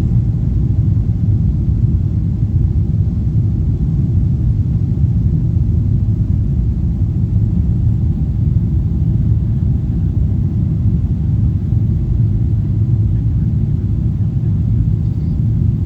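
Emirates jet airliner's engines and airflow: a steady low rumble that holds an even level without rising or falling.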